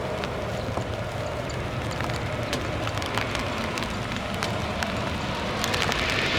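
Strong gusty wind on the microphone, crackling and popping, over the steady rumble of a distant airliner's jet engines that grows louder near the end.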